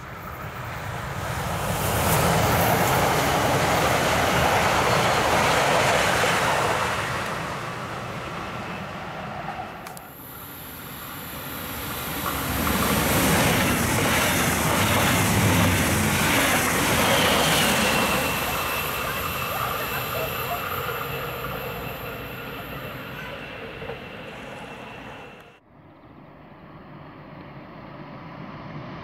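Electric passenger trains running past on an overhead-wired main line: first two coupled Class 442 Talent 2 electric multiple units pass close, the sound swelling and fading. Then a red double-deck regional train passes a station platform, with a thin high wheel squeal held for several seconds. Near the end the sound drops abruptly and two Class 429 FLIRT units approach, still quiet and growing louder.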